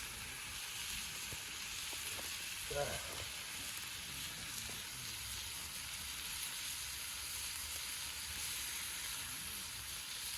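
Thin-sliced lamb sizzling steadily as it fries over a campfire, a continuous bright hiss.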